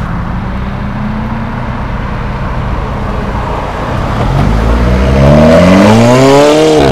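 Alfa Romeo 4C's turbocharged four-cylinder engine running low as the car pulls out, then revving hard from about four seconds in as it accelerates away. The pitch climbs steadily and the sound is at its loudest near the end before cutting off suddenly.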